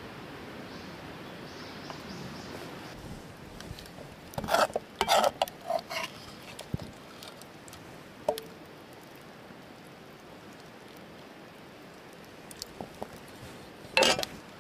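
Metal camp cookware and utensils being handled: a cluster of knocks and short ringing clinks, a single clink a few seconds later, then one sharp knock near the end, over a steady low outdoor hiss.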